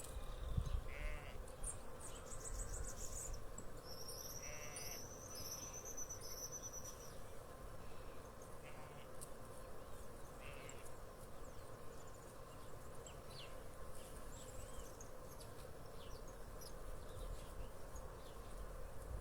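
Countryside ambience: a steady buzz of insects, with scattered short, high chirps and trills over it.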